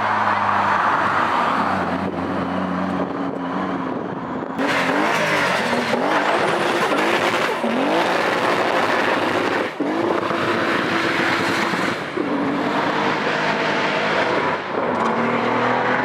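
Toyota Supra doing a burnout: the engine revs hard, its pitch climbing and dropping again and again with short lifts off the throttle, while the rear tyres spin and screech against the tarmac, leaving a big tyre mark.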